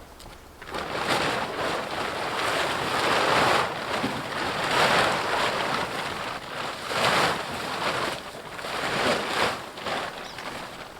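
A cover sheet being dragged and pulled off a tractor, rustling loudly in repeated surges.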